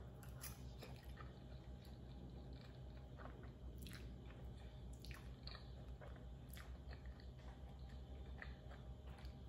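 Faint close-miked chewing of a mouthful of creamy pasta: soft wet mouth sounds with scattered small smacks and clicks over a low steady hum.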